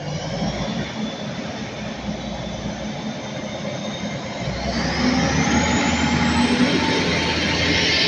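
Hitachi intercity bi-mode train pulling out of the platform and gathering speed. Its running noise is steady, then louder about five seconds in, with a whine that rises steadily in pitch as it accelerates.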